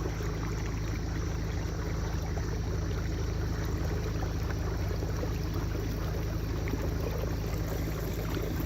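Kayak moving across a reservoir, water rushing and trickling along the hull, over a steady low hum.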